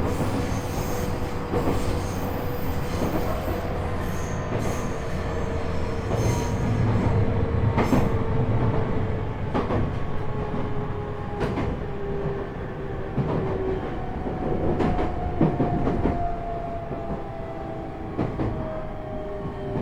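Onboard running sound of a JR East E127-series EMU (Toyo Denki GTO-VVVF, MT71 traction motors) slowing for a station stop. The traction motor and gear whine falls slowly in pitch and carries the extra note a semitone above the usual one that marks KuMoHa E127-11 as a noisy car. The wheels knock over rail joints ever more slowly.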